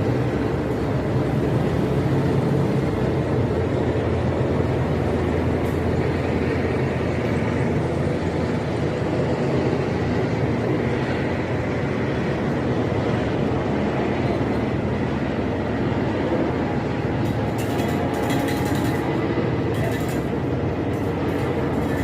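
Steady, even rumble of military aircraft engines overhead, strongest at the low end, holding level throughout with no rise or fall.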